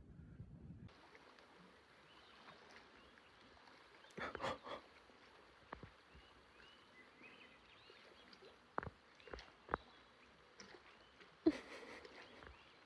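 Faint shoreline ambience with scattered short, high animal calls and a few sharp clicks.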